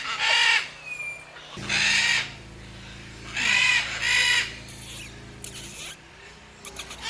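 Parrots squawking: several loud, harsh calls of about half a second each, one pair close together, followed by shorter shrill screeches. A steady low hum runs underneath through the middle of the stretch.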